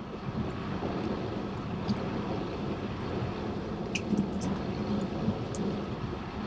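Steady wind rush on a bike-mounted action camera's microphone while riding a bicycle, with the hum of tyres on the path underneath.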